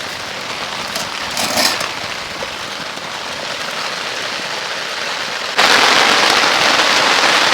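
Steady rain falling, which abruptly grows much louder about five and a half seconds in into a heavy downpour. There are a few faint crackles about a second in.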